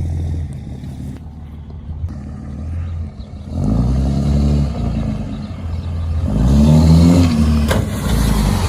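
Pickup truck engine running with a low rumble, revving up twice as the truck accelerates, about three and a half seconds in and again near the end.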